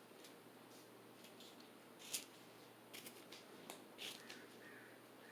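Modern Fan Company Cirrus ceiling fan running on low speed: a faint steady hum from its motor. A few small clicks sound about two, three and four seconds in.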